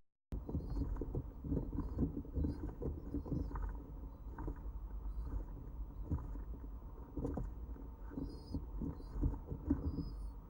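Stock dove squabs and a parent bird jostling inside a wooden nest box during crop-milk feeding: irregular soft knocks and rustling against the box. Faint short high bird chirps come through in the background.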